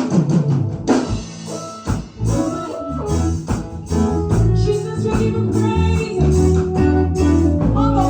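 Up-tempo praise music from a band with drum kit, guitar and tambourine on a steady beat. The bass fills out about two seconds in.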